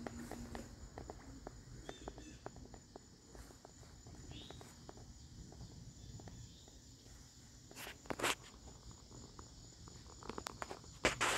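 Soft footsteps and faint scattered clicks over quiet outdoor ambience with a steady thin high-pitched insect drone; two louder brief rustling bursts come about eight seconds in and again near the end.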